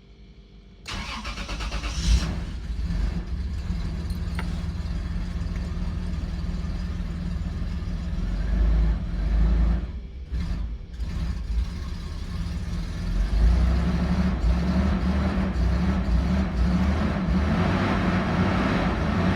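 2002 Toyota 4Runner's 3.4-litre V6 cranking and catching about a second in, then running rough and unevenly; its sound sags briefly about ten seconds in and picks up again toward the end. The rough running goes with the multiple-cylinder misfires (P0300) behind the truck's start-and-stall fault.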